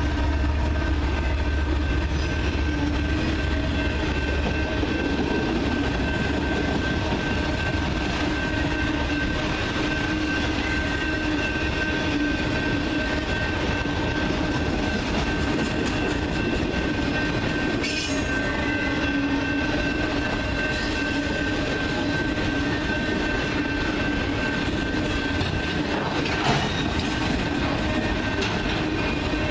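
Freight cars of a CN freight train rolling past: a steady rumble of steel wheels on rail with a thin, steady high squeal from the wheels, and a few short clanks.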